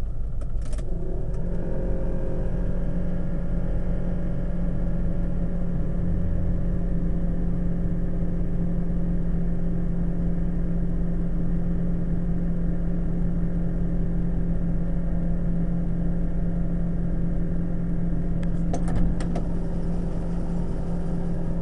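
1989 Jeep Grand Wagoneer's AMC 360 V8 with a two-barrel carburetor idling steadily as it warms up after a cold start, its fast idle already kicked down. The engine still misses, which the owner blames on a hole in the exhaust manifold that doesn't hold enough back pressure.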